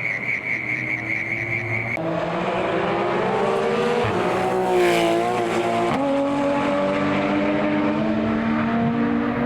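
Rally car engine revving hard as it accelerates past, its pitch climbing and stepping down with gear changes and loudest about halfway through. A steady high whine sounds during the first two seconds.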